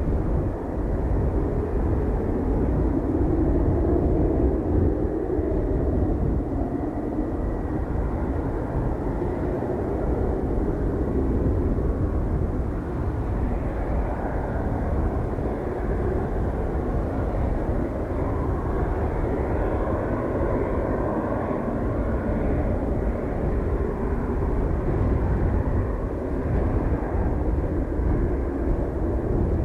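Aircraft engines running, a steady rumble with a roar that drifts slowly in pitch.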